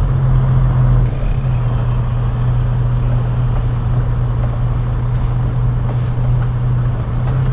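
Semi truck's diesel engine running steadily at low revs, a constant low hum, with a slight drop in level about a second in.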